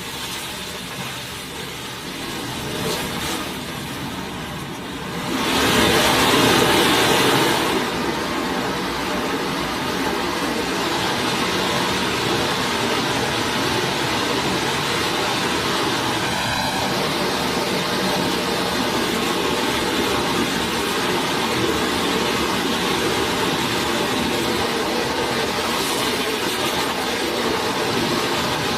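Creek water flowing steadily, a continuous rushing noise that swells louder for a couple of seconds about five seconds in.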